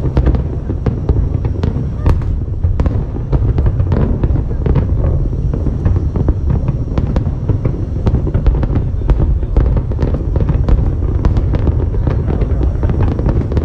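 Aerial fireworks display going off in a continuous barrage: many sharp cracks and pops a second over a steady deep rumble of booms.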